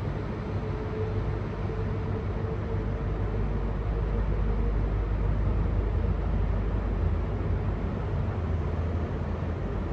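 Steady low rumble of a vehicle, with a faint held tone in the first few seconds.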